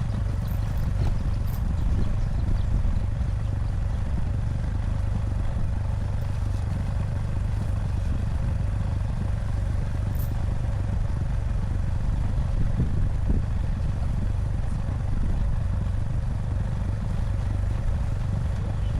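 ATV engine running steadily, a low even drone, as it tows a round hay bale by chain.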